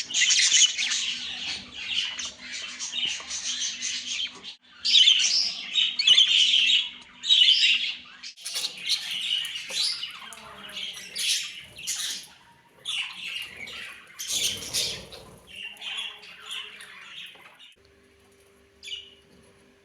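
Several budgerigars calling and chattering in rapid, overlapping, high-pitched calls, with short breaks twice. The calling stops a few seconds before the end, leaving a faint steady hum and a single short call.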